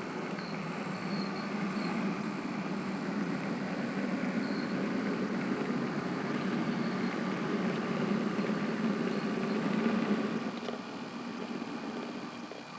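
Model train running along the layout with a steady motor-like hum, growing louder as it draws near and fading away over the last couple of seconds.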